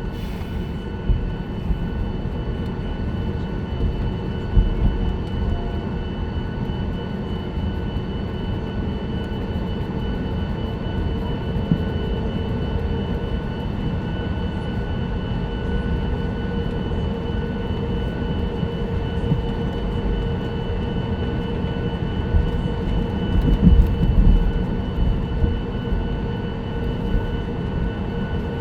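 Cabin noise inside a Boeing 737-9 MAX with CFM LEAP-1B engines: a steady engine hum and low rumble, with a few stronger rumbles about 23 seconds in.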